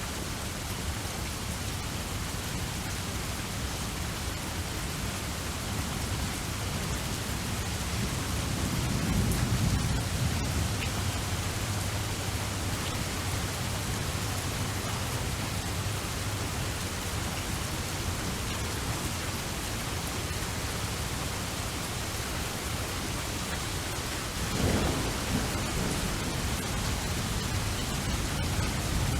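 Steady heavy rain with rolls of thunder: a low rumble swells about a third of the way in, and a louder, sharper thunderclap rumbles near the end.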